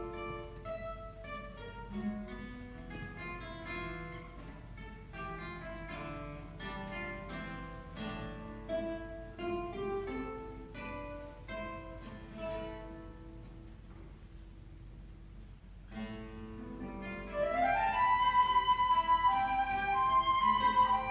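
Flute and guitar duo playing classical music. For most of the stretch the guitar plays alone in plucked notes, growing quieter about two-thirds through. Then the flute enters with a quick rising run into louder held notes over the guitar.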